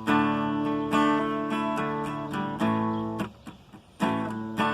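Acoustic guitar strumming chords, a fresh chord struck about once a second, with a brief pause near the end before the next strum.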